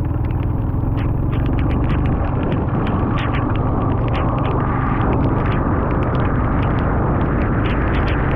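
Motorcycle riding at steady speed: the engine runs with a low, even hum under a constant rush of wind and road noise, dotted with many short, irregular sharp ticks.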